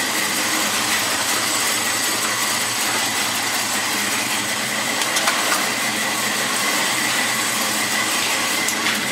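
1986 Chevrolet pickup's GM crate engine idling steadily, just after a jump-assisted cold start.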